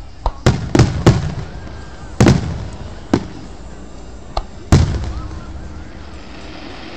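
Consumer aerial firework shells launching and bursting in a string of sharp bangs: several close together in the first second and a half, then single bangs about two, three and four and a half seconds in. After about five seconds there is a quieter stretch.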